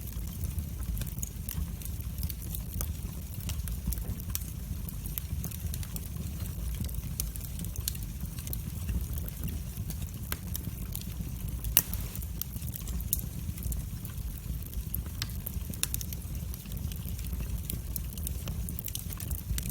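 Wood fire burning in a fireplace: a steady low rumble of flames with irregular sharp crackles and pops, one louder pop about twelve seconds in.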